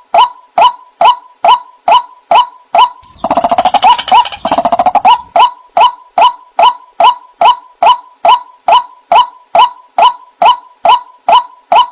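White-breasted waterhen calling, a loud 'ruak' note repeated about two or three times a second. About three seconds in, the calls give way for about two seconds to a fast, bubbling chatter, then the steady repeated call resumes.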